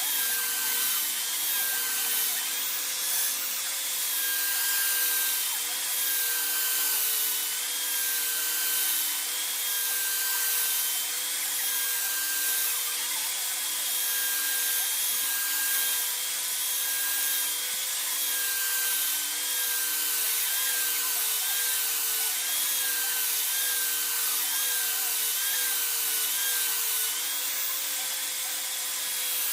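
Electric power tool running steadily with a high hiss, its motor pitch dipping briefly again and again as the work is pressed against it and recovering between passes.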